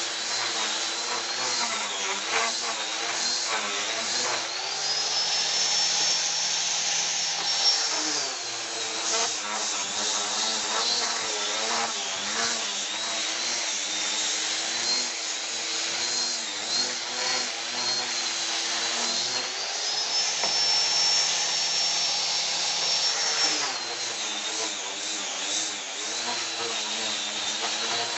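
Wood router motor running while carving wood, with a steady high whine. The pitch sags while the bit is cutting and twice rises to a higher, steadier note for a few seconds when the load comes off, about 5 seconds in and again about 20 seconds in.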